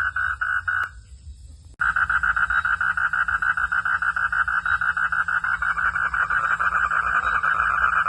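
Frogs calling at night in a pulsed chorus, about five pulses a second. The calling breaks off about a second in, then starts again abruptly, denser and louder, and runs on steadily.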